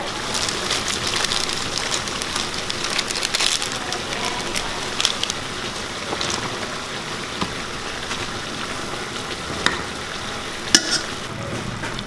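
Food frying in a pan: a steady crackling sizzle, with a few sharp clicks near the end.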